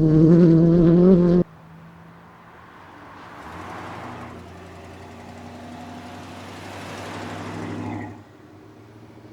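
Loud car engine held at fairly steady high revs, cut off abruptly about a second and a half in. Then a quieter car engine drone with tyre and exhaust noise swelling as a car drives past, dropping away about eight seconds in.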